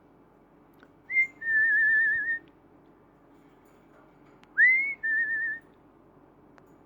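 Whistling in two short phrases a few seconds apart. Each starts with a quick rising note and goes into a held, evenly wavering tone.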